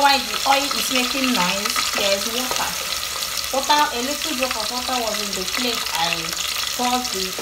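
Chopped onions sizzling in hot oil in a large aluminium pot, stirred with a wooden spoon. Wavering, voice-like pitched sounds run through the sizzle.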